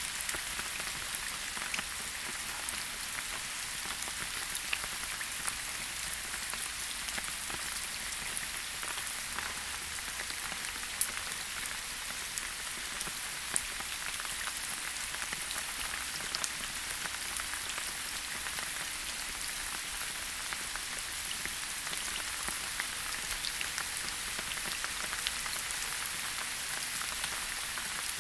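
Steady rain falling in a forest: an even hiss with many small, sharp drop ticks scattered through it, and one louder drop about 11 seconds in.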